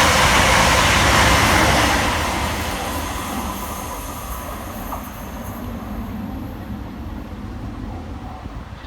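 Scotrail Class 380 Desiro electric multiple unit passing fast through the station: a loud rush of wheels and air, with a faint steady whine, that fades away over the last several seconds as the train moves off.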